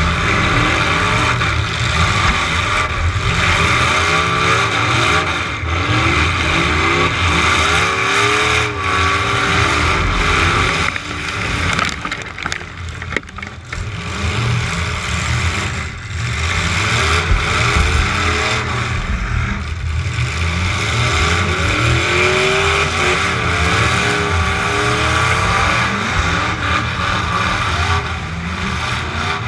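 Demolition derby truck engine revving hard and easing off over and over, its pitch rising and falling. It drops back for a few seconds about halfway through, then revs up again.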